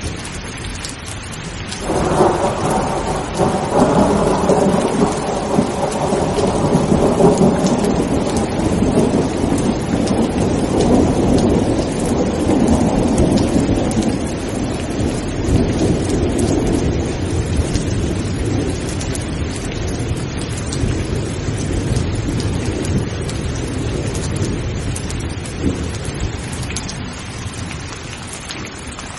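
Steady heavy rain with a long roll of thunder. The thunder breaks suddenly about two seconds in and rumbles on, slowly fading over some twenty seconds.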